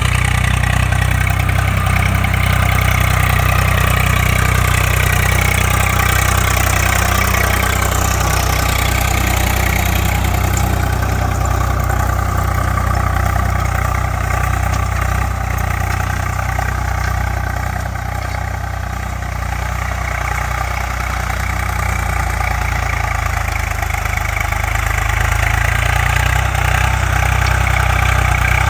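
Swaraj 744 FE tractor's three-cylinder diesel engine running steadily at low revs, briefly a little quieter about two-thirds of the way through.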